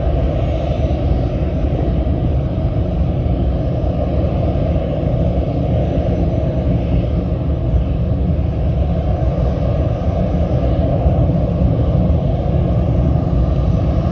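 Cambodia Airways jet airliner's engines running, a steady loud rumble that neither rises nor falls.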